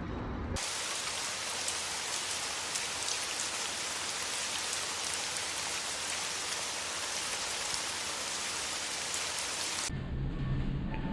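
Heavy rain falling steadily, a dense even hiss that cuts in abruptly about half a second in and cuts off abruptly near the end.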